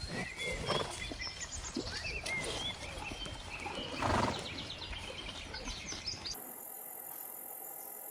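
Small birds chirping over an outdoor background, with a louder, rougher animal call about four seconds in; the sound cuts off abruptly at about six seconds, leaving a steady faint hiss.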